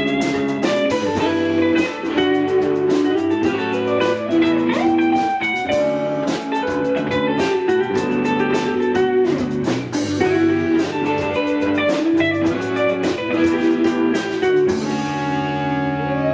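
Live rock band playing an instrumental passage: electric guitar over bass and drum kit with a steady beat.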